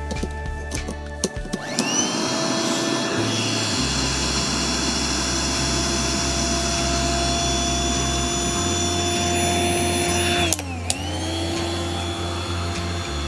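Electric air pump inflating an inflatable tent: the motor spins up about two seconds in to a steady whine, dips briefly near the end, and spins back up.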